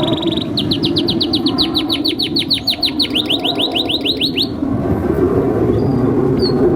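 Male domestic canary singing a fast trill of rapidly repeated, downward-sweeping notes, about six a second, which breaks off about four and a half seconds in. A steady low background rumble runs underneath.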